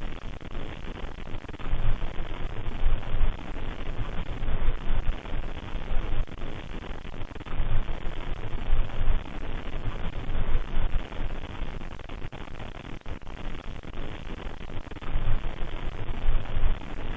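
Steady recording hiss with low rumbling that swells and fades several times.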